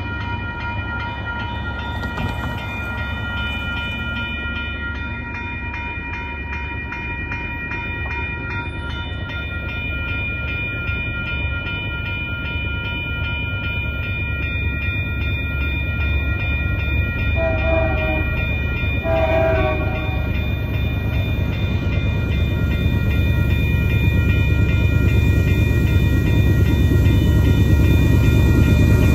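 Level-crossing warning bell ringing steadily as a Canadian Pacific diesel freight locomotive approaches, its rumble growing louder. The locomotive sounds its air horn in two blasts about two-thirds of the way in.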